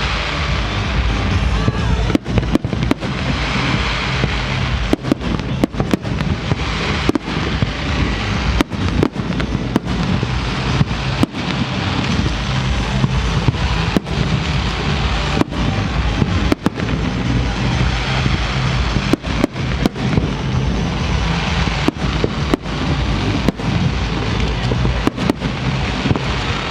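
New Year fireworks display going off in a dense, continuous barrage of bangs and crackles, with music playing underneath.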